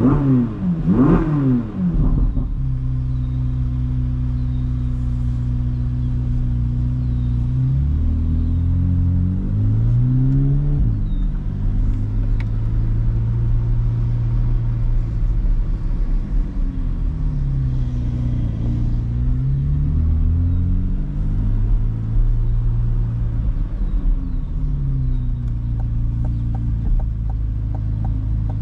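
2024 Corvette C8 Z06's 5.5-litre naturally aspirated flat-plane-crank V8 on the move: two quick revs up and down at the start, then a steady low engine note, its pitch rising and falling a few times around ten and twenty seconds in.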